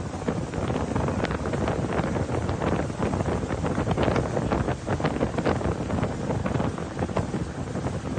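Wind buffeting the microphone: a steady rough rumble with many small crackles through it.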